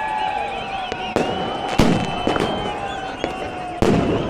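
New Year's fireworks and firecrackers going off all around: several sharp bangs, the loudest about two seconds in and again near the end. Between the bangs, rockets whistle with long, slowly falling tones.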